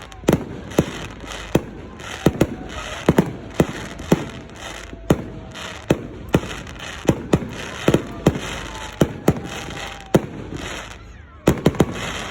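Firework display: a rapid, irregular volley of sharp bangs, at times several a second, over continuous crackling, with faint whistling tones in between and a short lull near the end.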